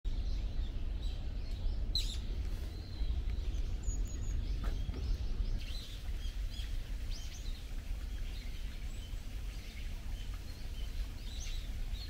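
Small wild birds chirping in short, repeated calls over a steady low rumble of outdoor background noise.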